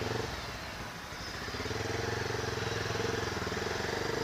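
Motorcycle engine running with a steady note while riding slowly in traffic, getting louder about a second and a half in.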